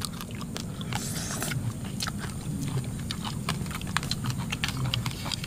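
Close-miked eating: chewing and mouth smacking picked up on clip-on microphones, with many scattered sharp clicks and a short hissy stretch about a second in.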